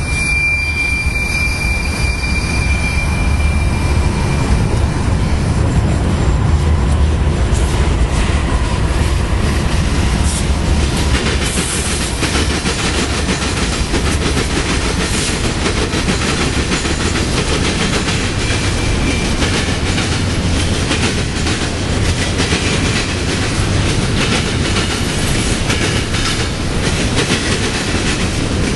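BNSF intermodal freight train passing close by. Its diesel locomotives rumble, loudest several seconds in, then the double-stack container cars roll past with steady wheel clatter on the rails. A thin high whine sounds in the first few seconds.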